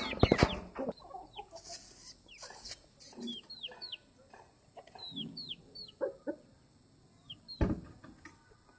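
Chickens clucking, with short, high, falling chirps scattered throughout and a few sharp knocks, the loudest near the start and one more late on.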